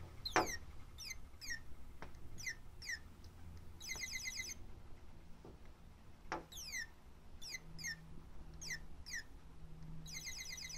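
Motion-sensing toy bird playing recorded birdsong: quick chirps that fall in pitch, in twos and threes, with a rapid trill about four seconds in and another near the end.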